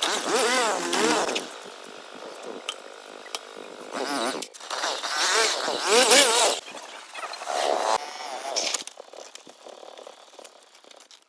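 An animal's high, wavering cries in four bouts, the first and third the longest, with quieter scraping and clicks between them.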